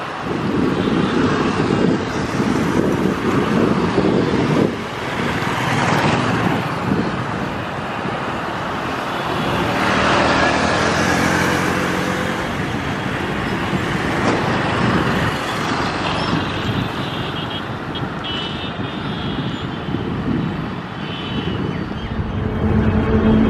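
A WAP7 electric locomotive hauling a passenger train approaches, heard as a steady, fluctuating rumble. A steady hum joins near the end as the locomotive draws close.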